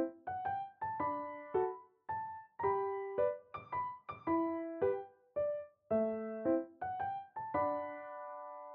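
Background piano music: a gentle melody of separate notes, each fading after it is struck, settling on a held chord near the end.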